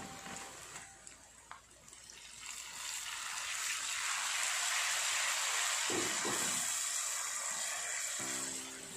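Ground spice paste sizzling as it fries in oil in a stone-coated wok while being stirred; the sizzle swells about three seconds in and eases near the end. Background music comes back in near the end.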